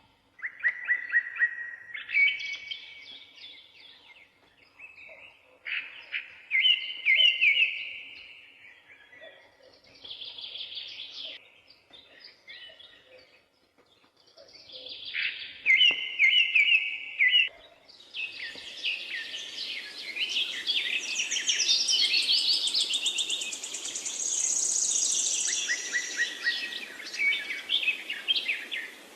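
Songbirds singing in short trilled phrases separated by brief pauses; about two-thirds of the way through, the song becomes a denser, overlapping chorus over a steady hiss.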